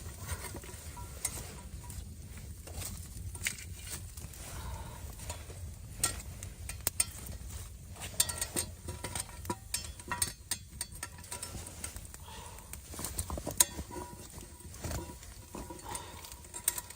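Irregular clicks and light clatter, scattered throughout, over a low steady rumble.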